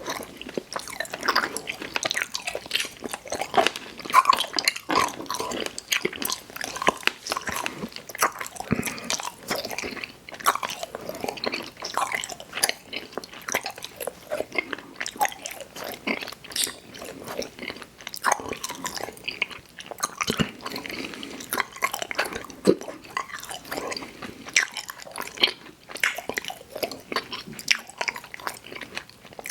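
Close-up mouth sounds of chewing and biting sour gummy worms eaten as cereal: soft, wet, squishy chews with irregular clicks and slurps.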